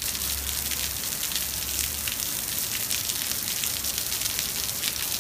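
Heavy rain pouring onto a wet road and pavement: a steady hiss of countless drops splashing. A low rumble comes and goes under it in the first two seconds.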